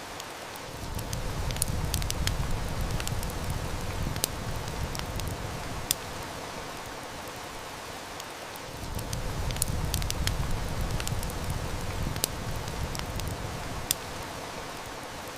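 Heavy rain hissing steadily, with the sharp snaps and pops of a wood fire crackling scattered through it. A low rumble swells up twice, about a second in and again a little past halfway.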